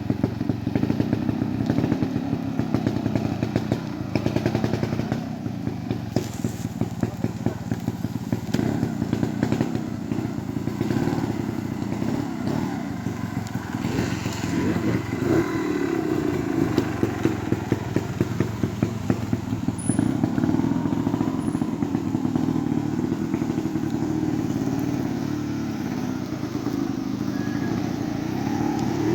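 Trials motorcycle engine running at low revs through an observed section, with clusters of short throttle blips in between steady low running.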